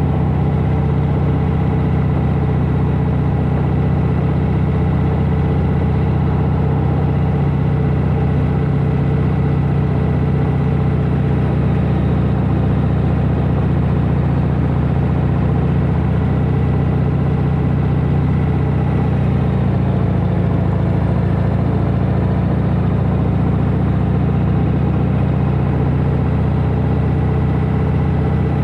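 A 1992 Harley-Davidson Heritage Softail Classic's Evolution V-twin engine running steadily while the bike is ridden along, its note easing slightly lower about twenty seconds in.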